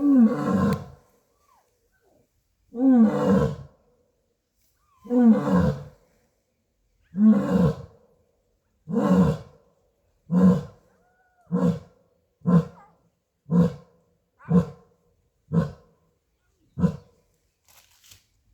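Asiatic lion's roaring bout: several long, deep roars, each falling in pitch, then a run of shorter grunts about a second apart that fade out near the end.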